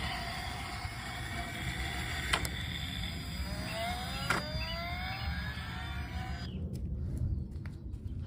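Small electric motor whirring steadily, with a few clicks and several rising whines midway; the whir cuts off suddenly near the end.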